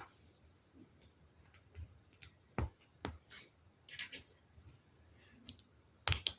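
Plastic LEGO Technic pieces clicking and tapping as they are handled and pressed together, with a few sharper clicks, two a little after halfway and a quick cluster near the end, and soft rustling of parts in between.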